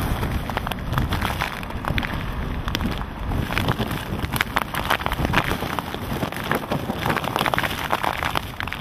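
Hurricane wind and driving rain: a steady rushing noise with many sharp rain hits, the wind buffeting the microphone.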